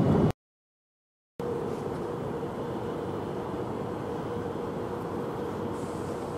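An Öresundståg electric multiple unit standing at the platform gives off a steady hum with a constant mid-pitched tone. Before it, a brief loud rush is cut off abruptly and followed by about a second of silence.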